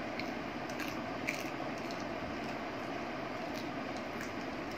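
Steady hiss of heavy rain, with a few faint crisp ticks and crunches from macaques eating crunchy cheese snacks.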